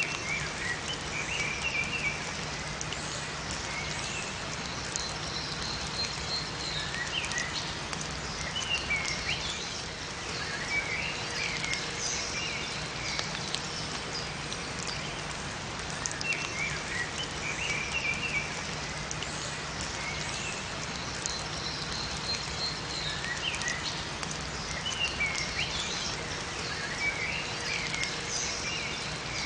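Steady rain falling in a forest, with small songbirds chirping and twittering in short clusters over it. The same bird phrases recur about every fifteen seconds.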